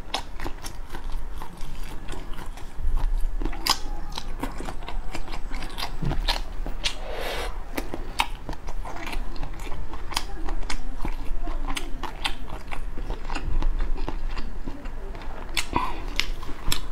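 Close-miked chewing of cooked shrimp: many small wet clicks and soft crunches from the mouth, irregular and continuing throughout.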